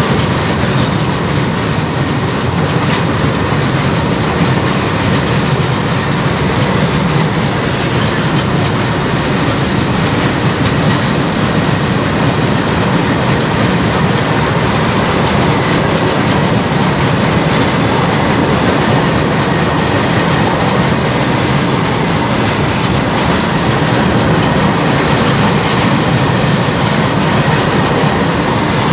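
A long freight train of open-top steel box wagons rolling past close by on ballasted track. Its wheels on the rails make a loud, steady rumble throughout.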